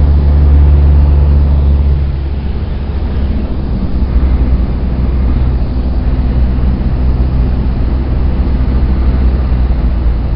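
Cessna 172's four-cylinder Lycoming engine and propeller droning steadily, with a low hum carrying several pitched tones. About two seconds in the drone drops in loudness and its pitch shifts, then it runs on steady.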